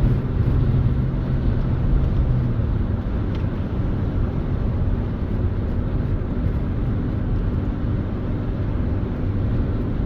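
Car engine and road noise heard from inside the cabin while driving. A steady engine hum eases off about two and a half seconds in, leaving an even rumble.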